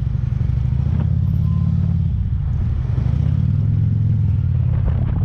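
Police motorcycle engine running steadily, its pitch wavering slightly up and down.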